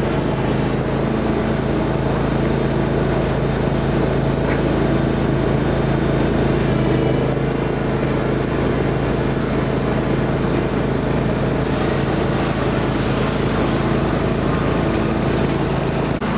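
Riding lawn tractor's small engine running steadily with no break.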